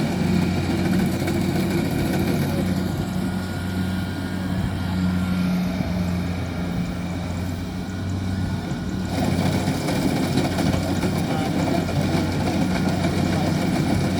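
Kubota combine harvester's diesel engine running at a steady drone while it works. The sound grows fuller and noisier about nine seconds in.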